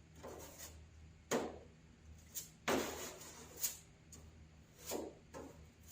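Plastic spreader scraping body filler, a series of short, sharp strokes with the loudest about a second and a half in and again near the middle, as the filler is worked into rust holes in a steel car hood.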